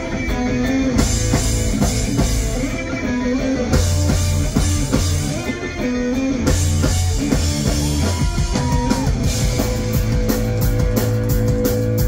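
Live pop-punk band playing an instrumental passage: electric guitars, bass and a drum kit. Near the end the drums pick up into quick cymbal strikes.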